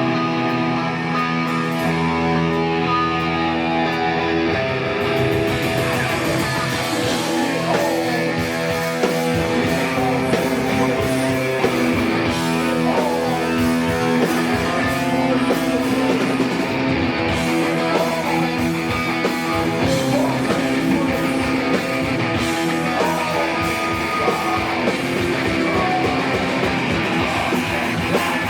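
Live hardcore punk band playing loud distorted electric guitar: held, ringing chords for the first few seconds, then the drums and full band come in at about five seconds and keep driving on.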